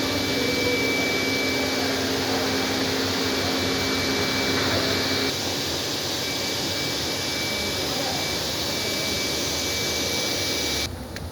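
A motor-driven machine running steadily with a whirring hiss and a thin, high whine. A lower hum in it stops about five seconds in, and the sound cuts off sharply just before the end.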